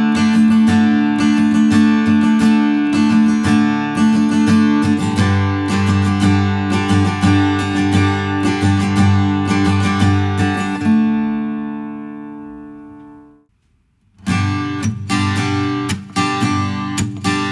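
Taylor Builder's Edition 324ce acoustic guitar strummed in a steady two-bar strumming pattern. About eleven seconds in, the last chord is left to ring and fades out; after a short silence the strumming starts again.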